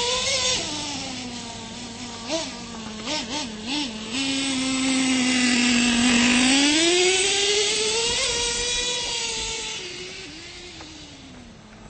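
R/C monster truck's motor running, with three or four quick throttle blips a few seconds in, then a steady run that rises in pitch, falls away and fades near the end.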